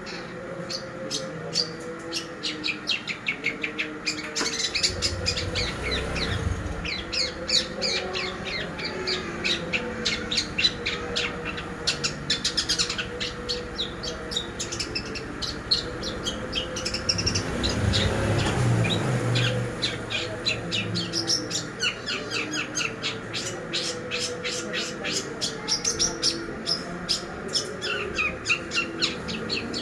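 Long-tailed shrike (cendet) singing a rapid, unbroken chattering song of quick, sharp notes, several a second. A low rumble rises under the song twice.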